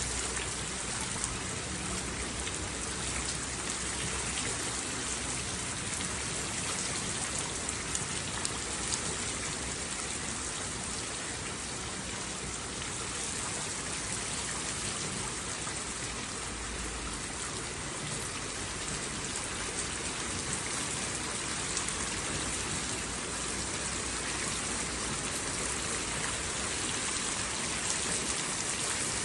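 Steady rain falling, a dense even hiss with scattered individual drops ticking.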